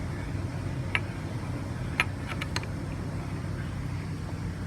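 A few short clicks and taps as the parts of a BMW S54 oil pump housing are closed together by hand: one about a second in, then three or four close together around two seconds in, the first of them the loudest. A steady low hum runs underneath.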